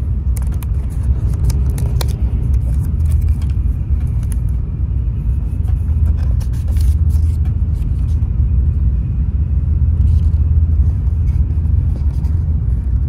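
Steady low rumble inside a Shinkansen bullet train carriage at speed. Over it come short crinkles and taps of the paper wrapping and ribbon band being pulled off a boxed sweet, mostly in the first few seconds and again around the middle.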